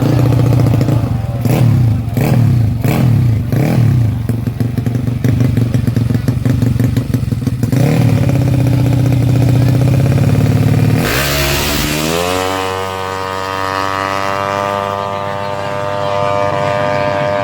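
Honda Karisma's 125 cc single-cylinder four-stroke engine revved in several quick blips, then running steadily. Near the middle comes a brief burst of noise, then the engine's pitch climbs as it accelerates and holds a high, steady note.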